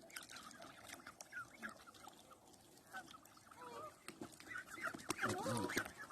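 Geese and ducks calling: many short, quiet calls at first, growing louder and more frequent over the last couple of seconds.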